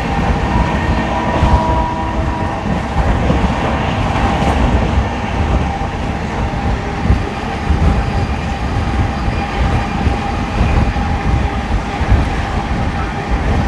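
Indian Railways express passenger train running on the track, heard from on board: a continuous, uneven rumble of the wheels and coach, with a faint steady whine above it.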